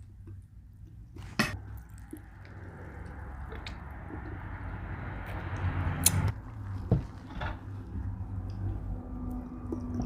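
A person eating a dressed salad and enchilada casserole close to the microphone: wet chewing, with a few sharp clicks of a utensil on a dish, the loudest about 1.5 and 6 seconds in.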